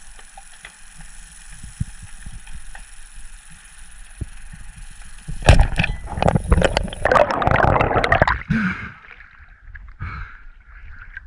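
Water splashing and bubbling, quiet at first with small knocks, then loud from about five seconds in for a few seconds before easing off.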